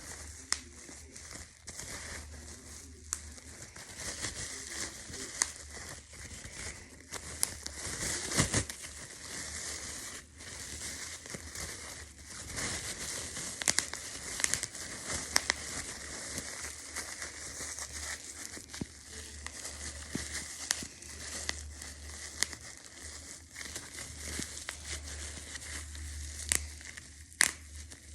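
Close-up crinkling and crackling of a handled material, with irregular sharp clicks throughout, over a faint steady low hum.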